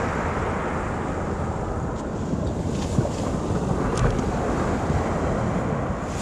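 Steady wind rumbling on the microphone, with two light clicks about three and four seconds in.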